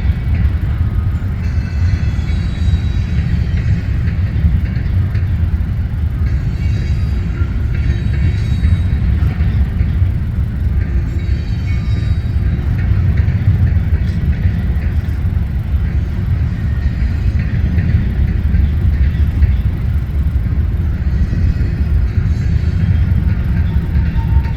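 A train passing: a loud, steady low rumble of wheels on rails, with faint high squeals coming and going every few seconds.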